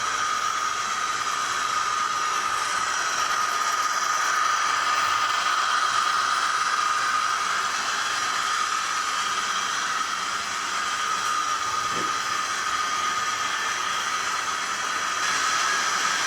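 The DCC sound decoder of an SDS Models NR class diesel locomotive model playing its locomotive sound through the model's small speaker: a steady hiss with a high whine held throughout.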